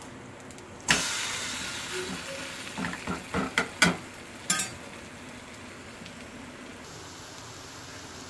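Thick adai flipped in a hot oiled iron kadai: a sudden loud sizzle about a second in as the raw side hits the oil, fading over a couple of seconds. A metal spatula then taps and scrapes against the pan several times, and a steady, quieter frying sizzle follows.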